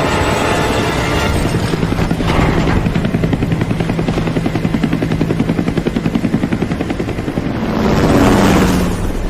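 Helicopter rotor chopping in a fast, even beat over a steady engine hum, with a rush of noise swelling near the end.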